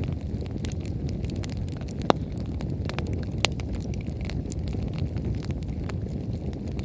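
Wood bonfire burning strongly: a steady low rumble of the flames with frequent small crackles, and two louder pops from the firewood, about two and three and a half seconds in.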